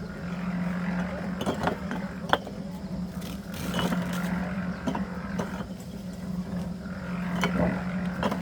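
A motor or engine running steadily with a low hum, with irregular knocks and clinks of work over it.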